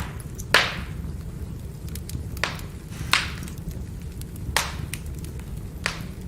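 Firewood burning in a fire: a steady low rumble with sharp pops and cracks about once a second, six in all, some louder than others.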